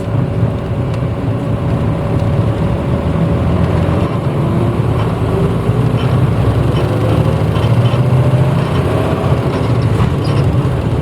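Interior running sound of a 1994 Hino Blue Ribbon U-HT2MPAA route bus under way: steady low engine and road rumble, with a faint whine that rises through the second half.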